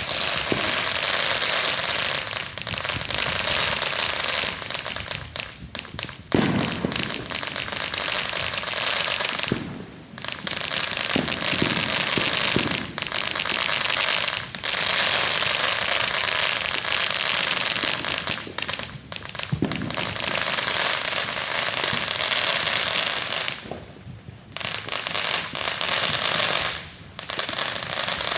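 Consumer fireworks going off nonstop: dense crackling with a few louder bangs, one about six seconds in and one near twenty seconds, breaking off briefly a few times.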